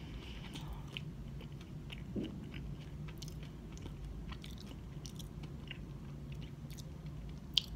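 Quiet chewing with closed mouth: soft, scattered mouth clicks and smacks as food is chewed, over a steady low hum. One sharper click comes near the end.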